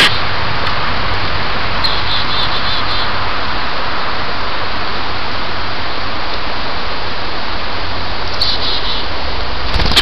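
Two short runs of quick, high, repeated bird call notes, about two seconds in and again near the end, over a steady loud hiss.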